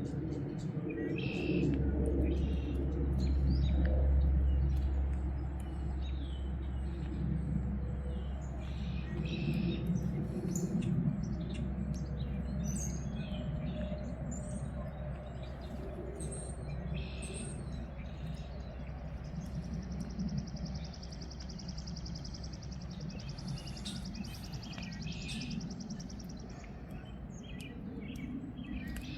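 Backyard songbirds chirping with many short calls, and one long even trill lasting several seconds past the middle, over a steady low rumble that is strongest in the first few seconds.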